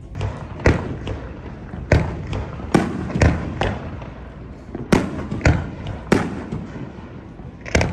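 Aerial firework shells bursting in quick, irregular succession: about nine sharp bangs, each followed by a short echo.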